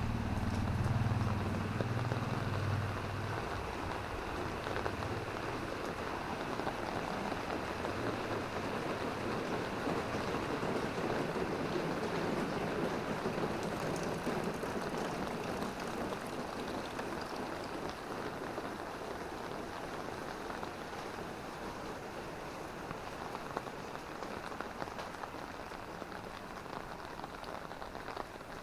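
Steady hiss of drizzling rain falling on a city road. A vehicle's low rumble fades away in the first few seconds.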